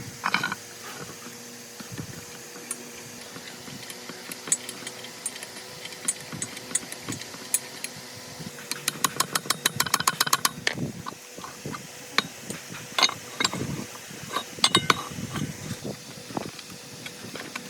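Metal parts and hand tools clinking and knocking during work on an old drill press, over a faint steady hum. About nine seconds in comes a quick run of even clicks, roughly eight a second, for about two seconds.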